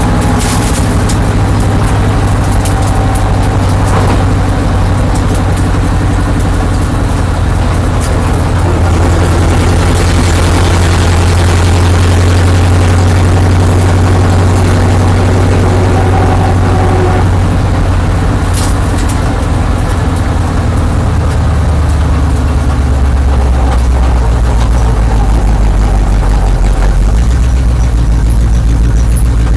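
Stock car's V8 engine heard from inside the cockpit, running loud and steady, then dropping lower in pitch about two-thirds of the way through as the car slows.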